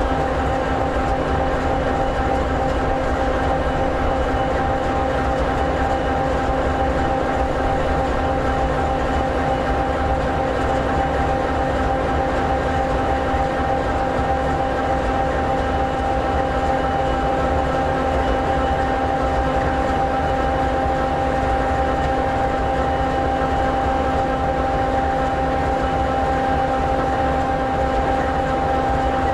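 EMD 16-710G3B sixteen-cylinder turbocharged two-stroke diesel of an SD60E locomotive idling steadily: an even, unchanging drone with several steady tones.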